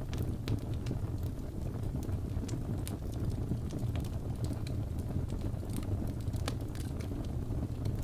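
Fireplace crackling: a steady low rumble of burning logs with irregular sharp pops and snaps a few times a second.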